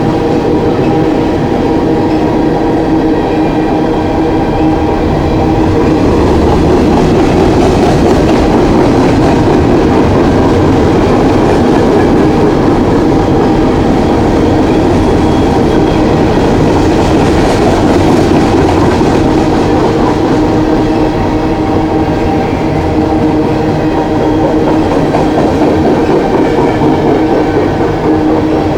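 Long coal train's cars rolling steadily past, wheels clicking over the rail joints, with a steady ringing tone from the wheels on the rails.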